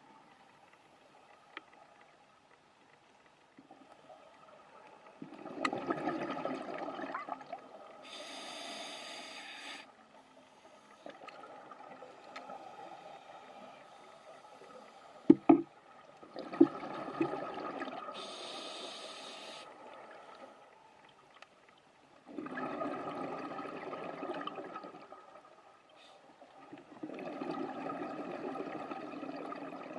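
A scuba diver's regulator breathing underwater: a high hiss through the demand valve alternates with bubbly exhaust bursts, a few breaths in all. About halfway through come two sharp knocks.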